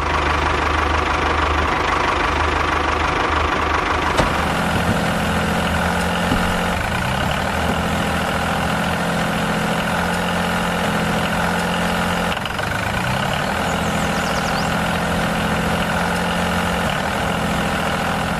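Tractor engine running steadily, its pitch sagging and recovering briefly twice.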